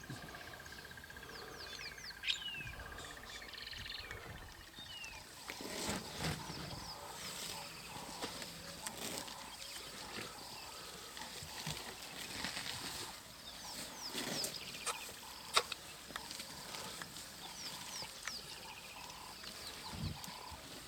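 Bush ambience: many short bird chirps throughout, with a steady insect-like trill in the first five seconds or so and a few scattered sharp clicks.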